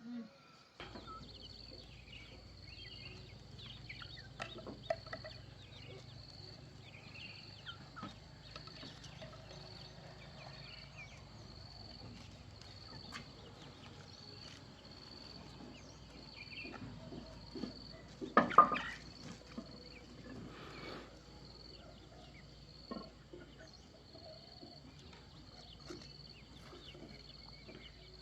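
Chickens clucking, with one loud call about two-thirds of the way through, over an insect's steady, evenly pulsing high chirp.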